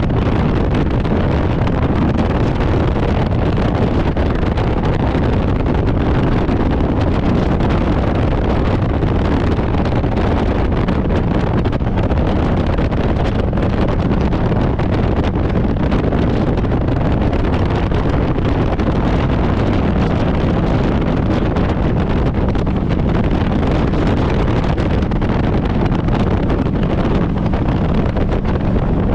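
Harley-Davidson Road Glide's V-twin engine running steadily while riding, mixed with wind buffeting the microphone.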